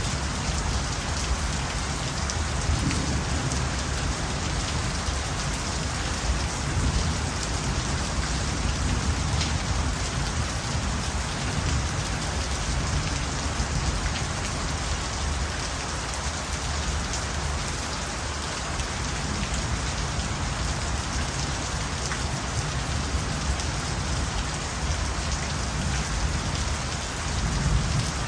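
Steady rain falling, an even hiss of drops on surfaces, over a continuous low rumble.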